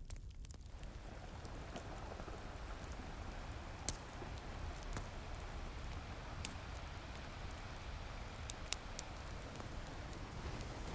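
Steady wash of ocean surf with a low rumble, overlaid by sharp crackles and pops from a wood fire that come every second or so, a few standing out louder.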